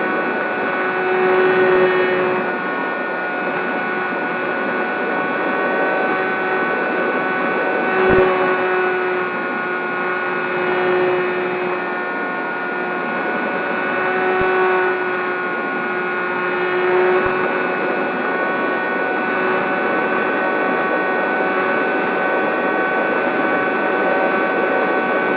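Electric RC plane's motor and propeller running at steady throttle: a constant whine of several pitches over a rushing hiss, the lowest pitch swelling and fading a little every few seconds.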